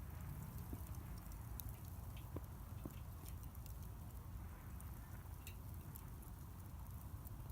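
Bonfire crackling: scattered small, sharp pops at irregular moments over a low steady rumble.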